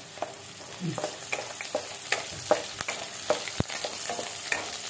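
Shallots and curry leaves sizzling in hot oil in a kadai while a wooden spatula stirs them. The spatula scrapes and taps against the pan two or three times a second, with one harder knock near the end.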